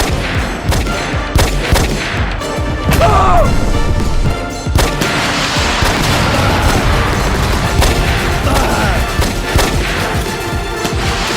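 Battle sound effects: rapid gunfire, with explosions and a dense, continuous din of fire from about five seconds in, over background music.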